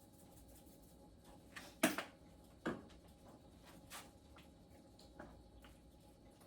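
A few short, light knocks and clicks of kitchen handling at the stove over a faint steady hum; the loudest comes about two seconds in, with another just after and two softer ones later.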